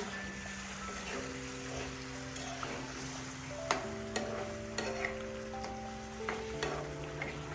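Chicken gizzards frying and sizzling in a pan while being stirred, with sharp clicks from the utensil against the pan every second or so. Soft background music with held chords plays underneath.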